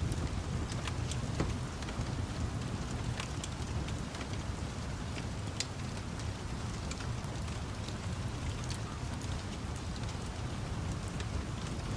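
Steady rain over a low, continuous rumble, with scattered sharp crackles and pops of a burning wood fire.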